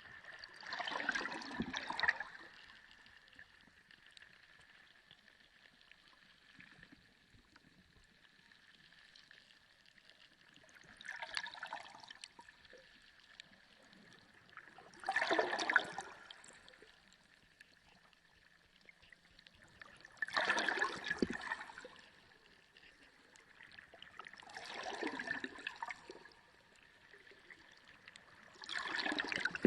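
Sea water surging in six short rushes a few seconds apart, over a faint steady high-pitched whine.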